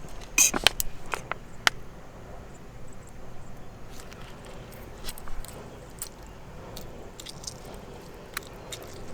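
Sharp clicks and light crinkling of things being handled, bunched in the first two seconds and then sparser, over a low steady rumble.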